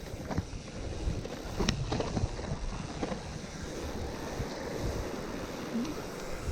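Steady rush of wind on the microphone and tyre noise from a gravel bike rolling over a loose, rough trail, with a few short clicks or knocks about two seconds in.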